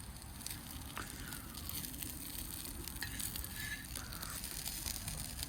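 Wood campfire crackling, with sharp pops scattered throughout over a low steady rumble.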